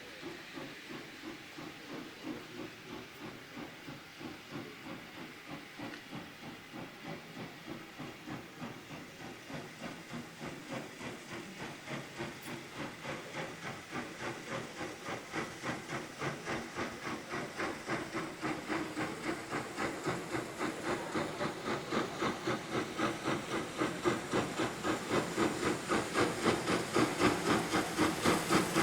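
Steam locomotive working under power, its exhaust beats coming in a steady rhythm of about three a second with a hissing edge. The beats grow steadily louder.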